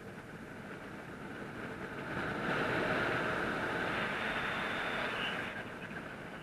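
Wind rushing over the microphone of a paraglider in flight, a steady noise that swells about two and a half seconds in and eases near the end.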